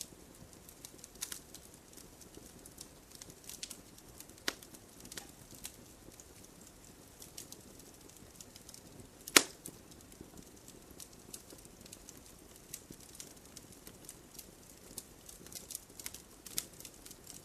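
Campfire crackling: irregular sharp pops and snaps of burning wood over a low hiss, with one much louder pop a little past halfway.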